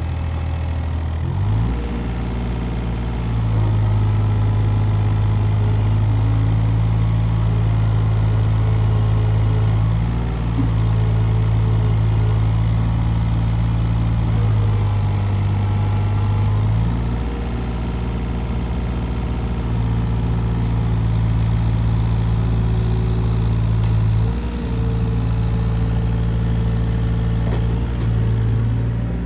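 Case CX37C mini excavator's diesel engine running steadily under hydraulic work, its tone shifting briefly every few seconds as the machine is operated.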